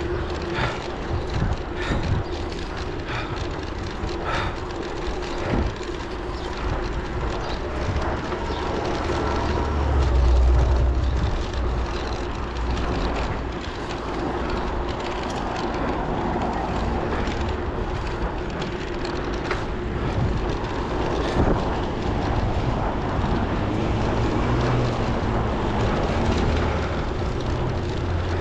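Steady rushing wind and road noise heard while riding along a road, with scattered small knocks and a low rumble that swells about ten seconds in.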